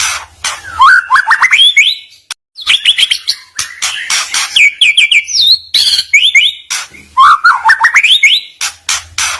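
A songbird singing almost without pause: repeated phrases of quick, rising whistled notes, a new phrase every couple of seconds.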